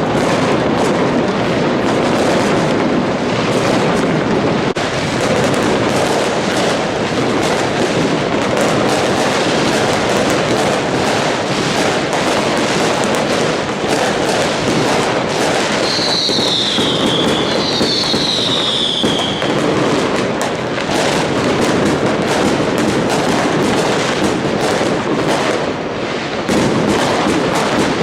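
New Year's fireworks display: a dense, continuous barrage of bangs and crackling pops, with two short falling whistles about two-thirds of the way in.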